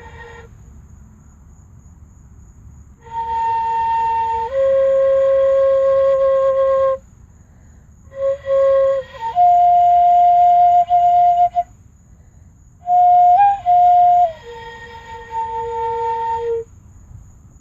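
A fife played by a beginner on a first attempt: long held notes in three phrases with short pauses between them, the pitch stepping between a few notes and a brief note right at the start.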